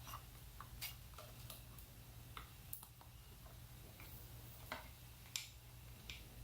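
Faint, irregular light clicks and taps of a 10 mm socket and bolt being worked into a tight spot to start the thread, over a low steady hum.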